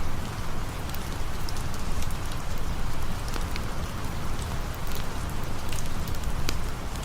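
Steady rain falling, with scattered sharp crackles and pops from a campfire mixed in.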